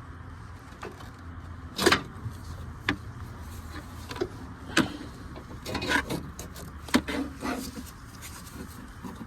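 Irregular knocks, clunks and rubbing as a power steering high-pressure hose is worked and pulled out through the engine bay, over a steady low hum.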